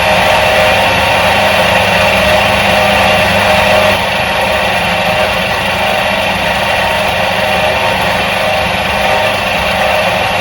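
Electric motor of a 1977 Soviet washing machine running steadily: an even hum under a constant whirring rush.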